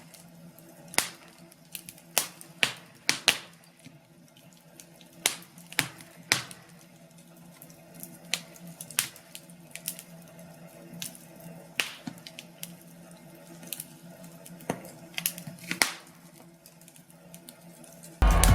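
Fireplace log fire crackling: irregular sharp pops and snaps over a faint steady low hum. Music comes in at the very end.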